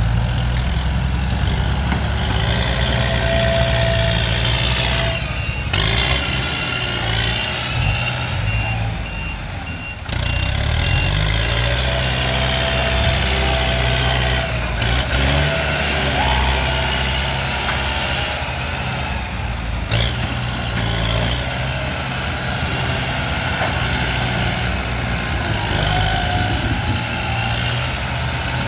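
Kubota M108S tractor's diesel engine running under load, its pitch shifting as it pushes soil, with a high whine from the machine rising and falling over it.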